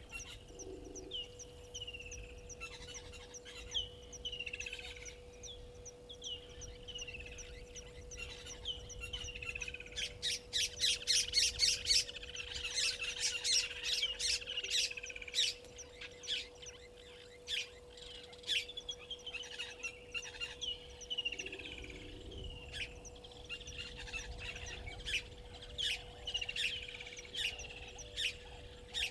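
Several wild birds calling. A short downward-sliding call repeats about once a second, then a loud burst of rapid chattering chirps comes about ten seconds in and lasts some five seconds before thinning to scattered chirps. A faint steady hum runs underneath.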